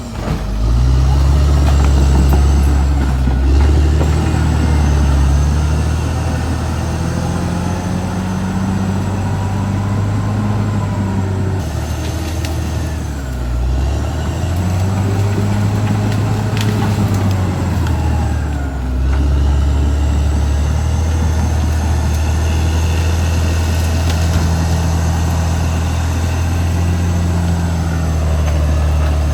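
Caterpillar D6R XL bulldozer's diesel engine working under varying load, its low note rising and falling in pitch, with fainter higher whines from the machine above it.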